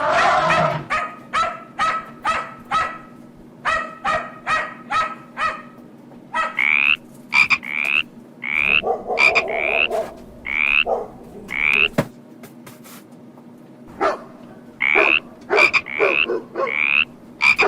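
Repeated short animal calls: a fast run of pulsed calls, then two bouts of short rising chirps about every half second, with a quiet gap between.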